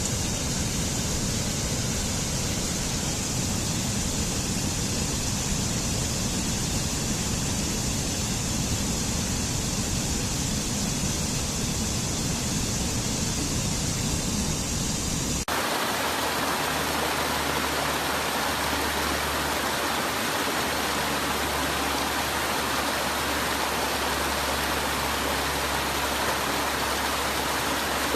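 Waterfall water rushing as a steady, even noise. About halfway through, the sound switches abruptly to a brighter, hissier rush with less low rumble.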